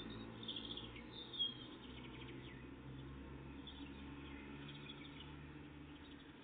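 Songbirds calling and singing faintly, with short high chirps and a few falling sweeps and one sharper call about a second and a half in, over a steady low background rumble.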